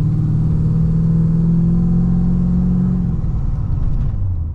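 Big-cammed Holden LS1 V8 in an SS Commodore, heard from inside the cabin, running at low revs before any tune has been applied. The engine note is steady, then drops and fades about three seconds in.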